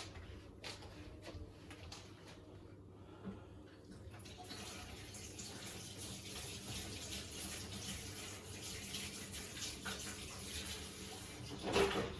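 Beko WTK104121A washing machine taking in water: a few light clicks, then a steady hiss of water rushing into the machine from about four seconds in, with a louder burst just before the end.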